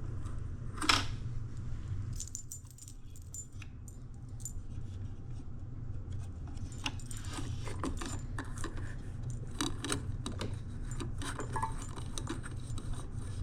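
Hard plastic parts of a Nespresso Vertuo Pop coffee machine being handled around its lock and capsule head: scattered clicks and small rattles, with one sharp click about a second in and a busier run of clicks later on.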